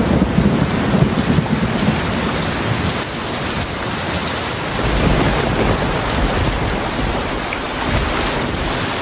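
Heavy rain falling steadily as a dense hiss, with low rolling thunder rumbling underneath: strongest in the first second or so and swelling again about halfway through.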